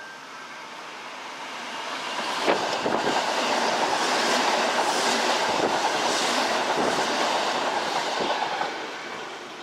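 Kintetsu electric train passing at speed, its wheels clacking over the rail joints. It builds over the first two seconds, stays loud, then fades near the end.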